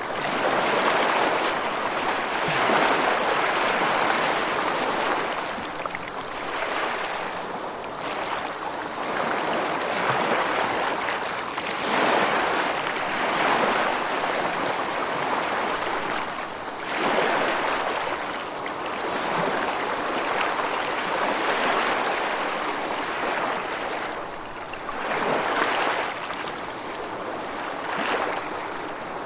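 Steady rushing of water that swells and ebbs every few seconds.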